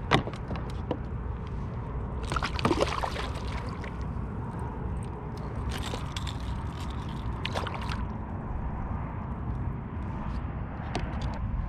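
Water sloshing and splashing at the side of a kayak, with a sharp click at the start, two noisy splashy stretches, and scattered small clicks and scrapes, as a hooked redfish is fought to the boat.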